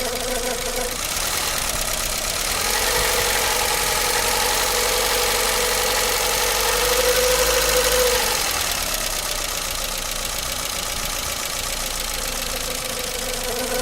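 Renault Logan's 1.4-litre petrol engine running warm. It idles, is held at higher revs for several seconds, then settles back to idle. The owner is recording it for an engine knock.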